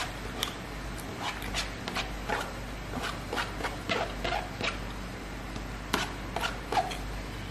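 Wet chewing and lip-smacking on a mouthful of rice and rendang, a string of irregular short clicks with a few sharper smacks near the end, with fingers pressing rice on a metal tray, over a faint steady low hum.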